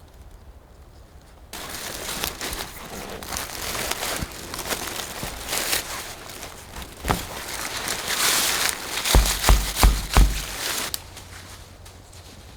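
Rustling and crinkling handling noise that starts abruptly about a second and a half in and stops shortly before the end, with four dull thumps in quick succession about two-thirds of the way through.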